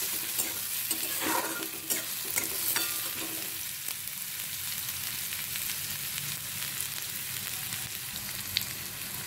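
Chopped onion and green chillies frying in hot oil in a kadhai, sizzling steadily: the tempering for upma. A spatula scrapes and stirs them several times in the first few seconds, and there is one sharp click near the end.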